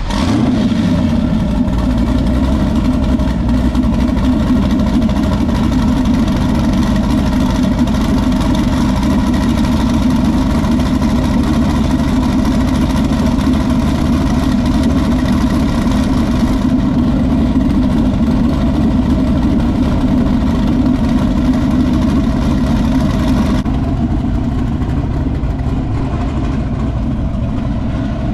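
LS V8 engine in a twin-turbo Nissan 300ZX catching right at the start, then settling into a steady idle.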